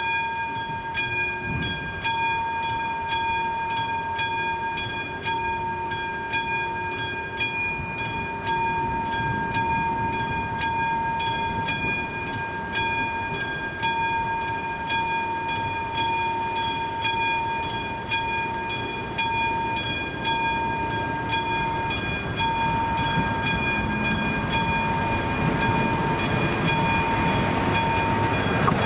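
Electronic warning bell of an AŽD 71 level-crossing signal ringing in an even rhythm of about two strikes a second, signalling an approaching train. A train's low rumble builds over the last few seconds.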